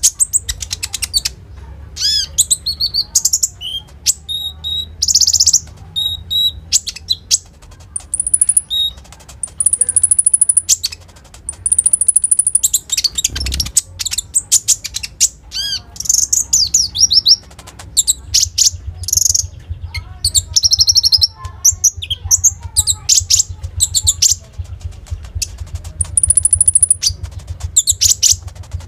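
A konin sunbird singing hard: bursts of rapid, high-pitched chirps, trills and short piercing notes with brief pauses between them. A faint low hum runs underneath.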